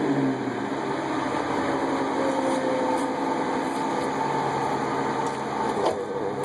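Ford Crown Victoria's 4.6-litre V8 running steadily at idle through an exhaust with water in it, a condition that comes from long idling. A couple of brief clicks come near the end.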